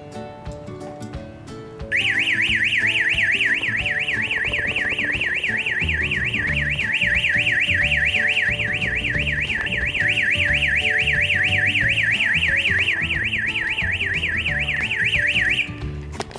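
Electronic alarm siren of a sliding gate motor's alarm system sounding: a loud, high warbling tone sweeping rapidly up and down about four times a second. It starts about two seconds in and cuts off suddenly near the end, over background music.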